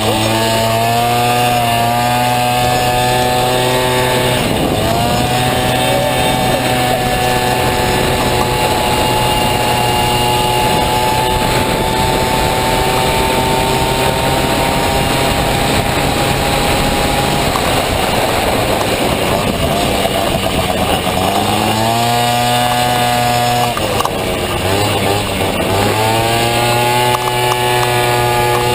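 Honda Dio two-stroke scooter engine in a Motocompo frame running hard at near-steady high revs, as with a CVT. Its pitch dips briefly about four seconds in, falls away for several seconds past the middle as the throttle is lifted, then climbs back, with another short dip near the end.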